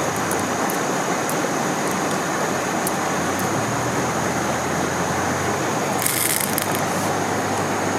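Steady rush of stream water flowing below a waterfall, with a short burst of hiss about six seconds in.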